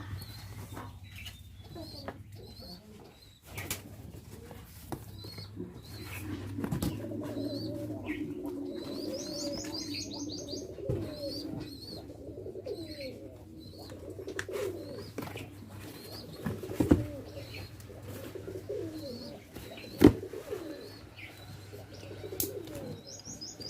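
Pigeons or doves cooing with small birds chirping repeatedly, and a fast high trill twice. Two sharp knocks sound near the end, the second the loudest.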